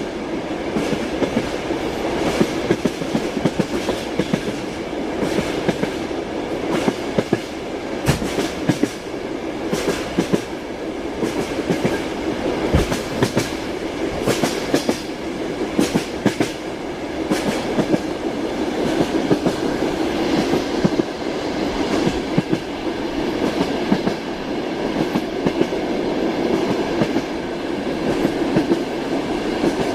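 A train running at a steady speed: its wheels clatter over the rail joints in a repeating clickety-clack over a continuous rolling rumble.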